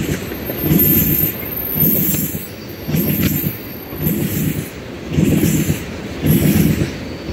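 Tank cars of a BNSF crude oil unit train rolling past on a curve. The wheels rumble in a regular beat that swells about once a second, and a thin high flange squeal sounds in the first couple of seconds.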